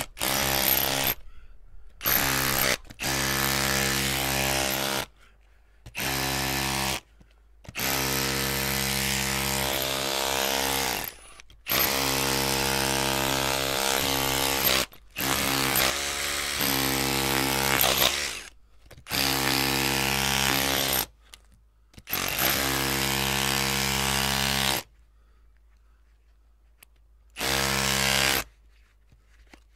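An electric drill running in repeated bursts of a few seconds each, a steady motor whine at constant speed, stopping and starting again after brief pauses. Near the end there is a longer pause of a couple of seconds before it starts again.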